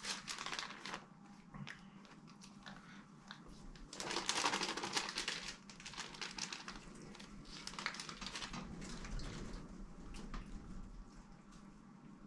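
Faint crinkling and small clicks of food and utensils being handled at a meal, with a louder crinkling rush about four seconds in.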